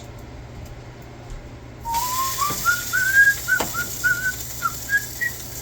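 A person whistling a tune, a single clear line of short notes stepping upward, starting about two seconds in. A steady hiss starts at the same moment, with a couple of light knocks.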